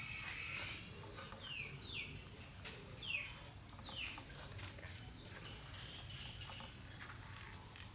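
Four short, high-pitched animal calls, each falling quickly in pitch, over steady outdoor background noise.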